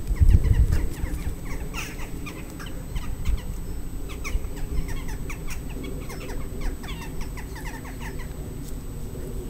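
Small birds twittering: many short, quickly falling chirps overlapping one another. A low rumble is loudest in the first second, then dies down.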